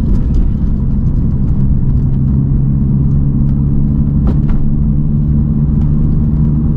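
Interior sound of a Mini car driving at a steady pace: a constant low engine note over road and tyre noise, with a single short click about four seconds in.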